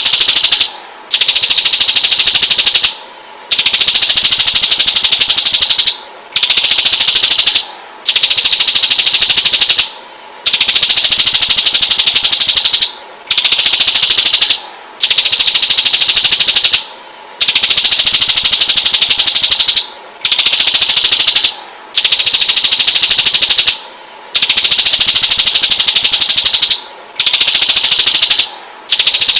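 A recorded bird's rapid, buzzy trill, played as a masteran track for training white-rumped shamas. It repeats in long, even phrases of one to three seconds with short pauses between them.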